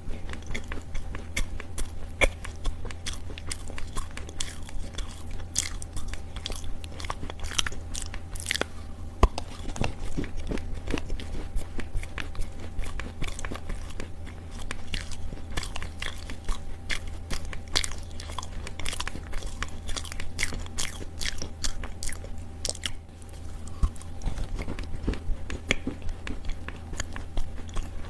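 Close-up crunching of dry Chinese loess clay: a dense, irregular run of small crisp cracks and crackles, with a few louder snaps.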